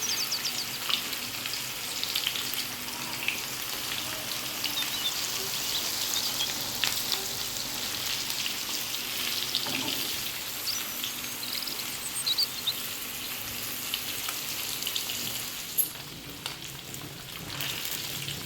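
Food frying in hot oil in a pan: a steady sizzle with scattered crackles and spits, a little quieter near the end.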